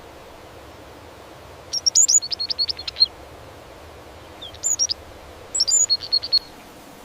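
A bird giving three bursts of rapid, high-pitched chirping notes, the first and longest about two seconds in, over a steady faint hiss.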